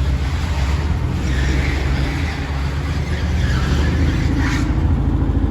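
Porsche 914's engine running steadily, still warming up about a minute after a cold start, with a faint click near the end.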